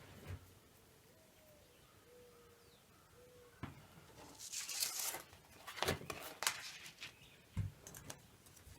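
Quiet workshop handling sounds: a few scattered knocks and clatters of wood and tools being set down and picked up, with one brief scraping rustle about halfway through.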